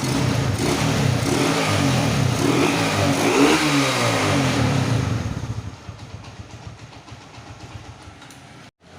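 Motorcycle engine revving, its pitch rising and falling over the first five seconds or so, then settling back to a quieter, steadier run.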